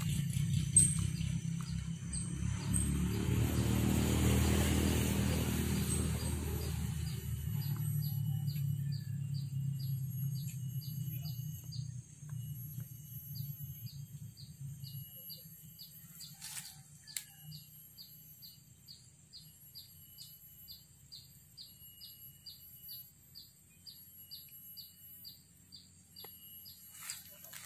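A low rumble fades away over the first several seconds. Then a bird repeats a short, high chirp about two or three times a second, steadily, to the end.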